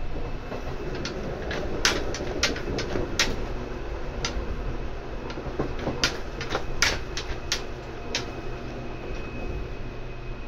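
Seibu 2000 series electric train running, heard from inside the car above the under-floor line breaker: a steady low rumble with a faint steady whine, broken by a dozen sharp clacks, some in quick pairs.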